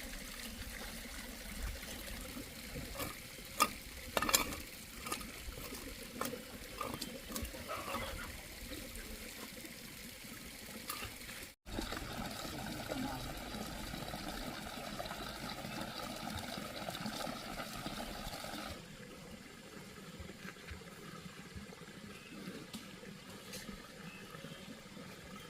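Water pouring and splashing, with a run of sharp knocks and taps a few seconds in.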